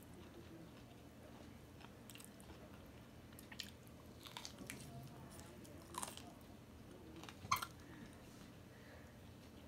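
Soft, close-up chewing and mouth sounds of a person eating a handful of rice and curry, with scattered faint clicks and smacks. The sharpest smack comes about seven and a half seconds in.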